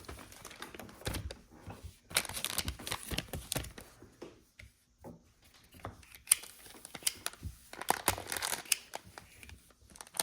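A foil trading-card pack wrapper being torn open and crinkled, in two long stretches of crackling. There is one sharp click about six seconds in.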